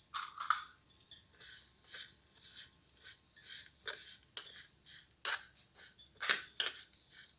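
A small spoon scraping and clicking irregularly against a miniature pan as vermicelli is stirred and fried in ghee.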